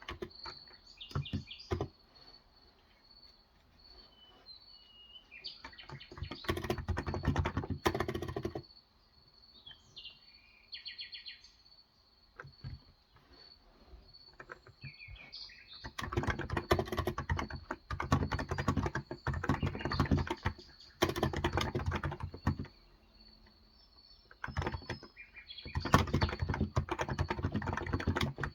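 Typing on a Cox Endeavor electro-capacitive (Topre-style) tenkeyless keyboard with light 35 g keys, in three runs of rapid key clicks with pauses between. Small birds chirp briefly in the pauses.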